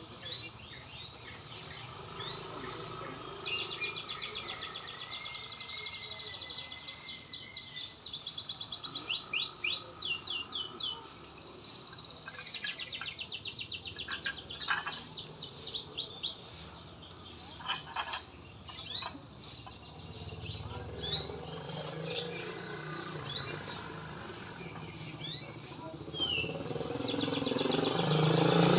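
White-rumped shama (murai batu) singing a long, varied song of rapid high trills, quick rising and falling whistles and sharp single notes, broken by short pauses. Engine noise from road traffic swells near the end.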